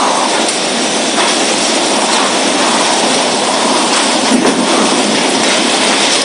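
Storm wind blowing hard with heavy rain: a loud, steady rushing noise that swells and eases slightly.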